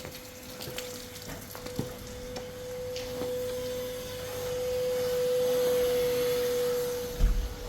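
A steady single-pitched whistling tone that swells louder in the second half, with scattered light clicks and a dull thump near the end.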